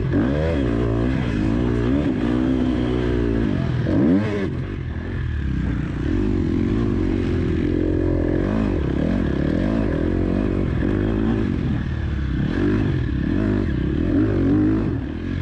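KTM 250 SX-F motocross bike's single-cylinder four-stroke engine being ridden, its pitch rising and falling again and again as the throttle is opened and closed, with a short rise and then a drop off the throttle about four seconds in.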